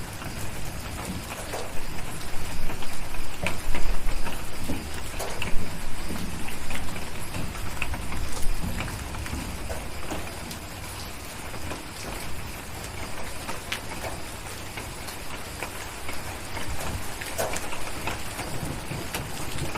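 Steady rain tapping on a window, with scattered crackles from a fireplace. A low rumble of distant thunder swells about two seconds in and dies away by about nine seconds.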